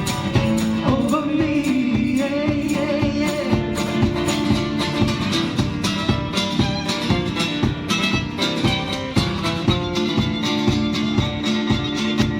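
Live band playing: plucked or strummed guitar over a steady beat, with a voice singing in the first few seconds.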